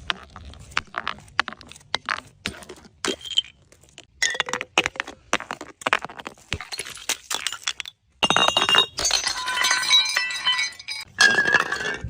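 Glass bottles breaking, with a run of sharp cracks and clinks of glass. From about eight seconds in, a thicker spell of shattering and ringing glass shards.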